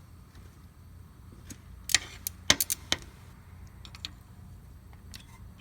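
Metal clicks and clinks of a hand wrench on the bolts holding a stud-removal template plate to an engine's cylinder head as they are tightened, a quick irregular cluster of sharp clicks about two seconds in and a few fainter ones later.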